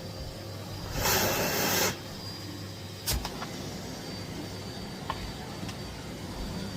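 Miele Blizzard CX1 bagless cylinder vacuum cleaner running steadily, with a louder rushing surge about a second in that lasts nearly a second, and a sharp knock about three seconds in.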